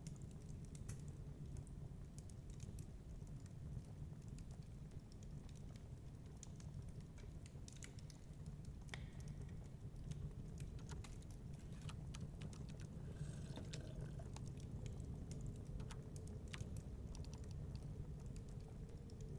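Wood fire crackling in a fireplace, irregular sharp pops and snaps over a steady low rumble of storm wind.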